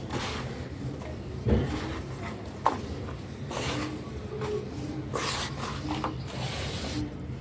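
Dry cement being crushed and crumbled: gritty rubbing and crunching in irregular bursts, with two sharp clicks about one and a half and two and a half seconds in.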